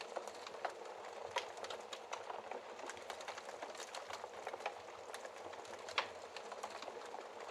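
Wood fire in a fireplace crackling steadily, with frequent small irregular pops and a couple of sharper snaps, about a second and a half in and about six seconds in.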